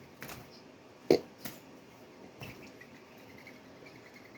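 Doves slapping each other with their wings while squabbling at a windowsill feeder: a few sharp whacks, the loudest about a second in, with softer ones around it.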